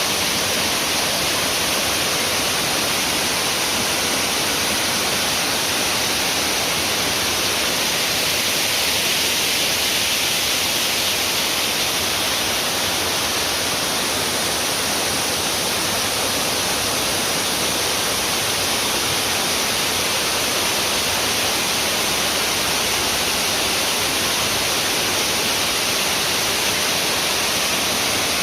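Waterfall with water pouring and splashing in a steady, even rush.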